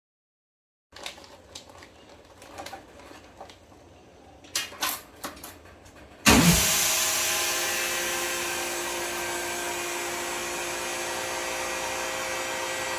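Handling clicks and rustles, then about six seconds in a vacuum packing machine's pump starts with a thud and runs steadily with a hum, evacuating a bag of steamed corn.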